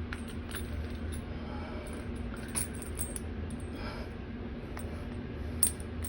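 A few faint metallic clicks and taps from a toilet tank bolt and its metal and rubber washers being handled and fitted together, the sharpest near the end, over a low steady hum.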